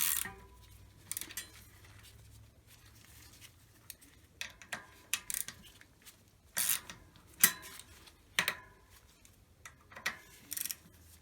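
Ratchet wrench clicking and small metal tools clinking in short irregular spells, tightening the bolts of a bicycle's front disc brake caliper.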